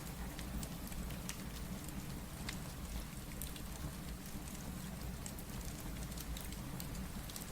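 Steady rain over a low rumble, mixed with a wood fire crackling in scattered sharp pops.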